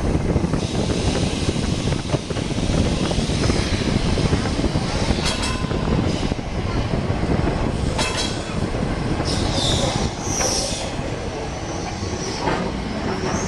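Heritage electric tram running along its track, a steady rumble and rattle with a couple of sharp knocks, and the wheels squealing briefly about ten seconds in.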